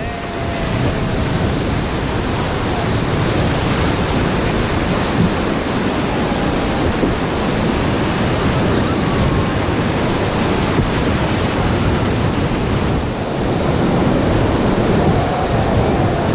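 Loud, steady rush of river whitewater around a raft running the rapids.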